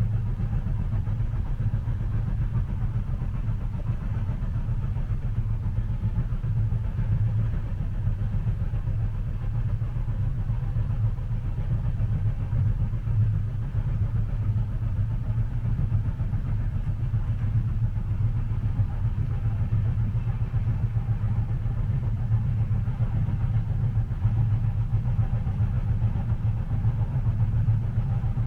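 Train cabin ambience: the steady low rumble of a moving train heard from inside a passenger carriage.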